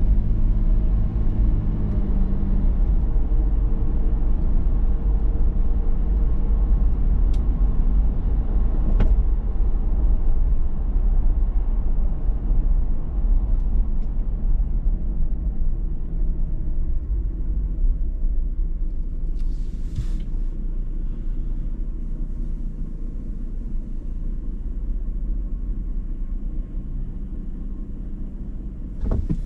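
Toyota 4Runner TRD Pro's 4.0-litre V6 and road noise while driving: a steady low rumble, with an engine hum that fades after the first few seconds. A few brief clicks are heard, and a short hiss about twenty seconds in.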